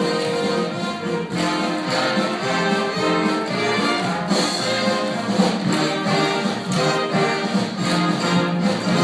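Orchestra playing an upbeat show-tune accompaniment, with brass (trumpets and trombones) to the fore over strings.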